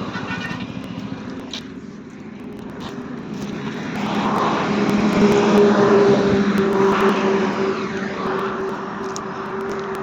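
TVS Apache RTR 200 4V single-cylinder motorcycle engine droning steadily at road speed, with wind rushing past the microphone. It grows louder from a little under halfway through and eases off again near the end.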